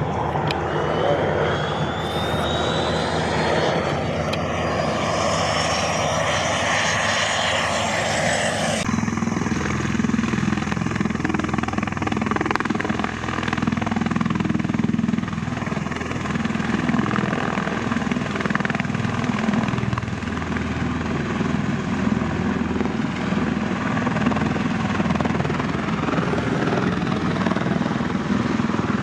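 Aircraft engine noise from a flying display, steady and loud. A high whine rising in pitch runs through the first nine seconds and cuts off abruptly, leaving a steadier, deeper engine drone.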